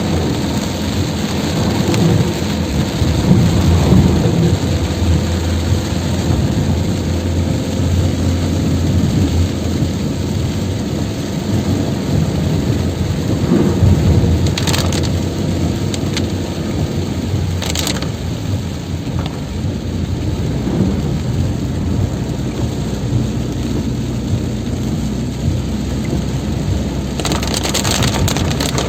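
Heavy rain pouring steadily, with a constant low rumble beneath it and a few brief sharp noises about halfway through and near the end.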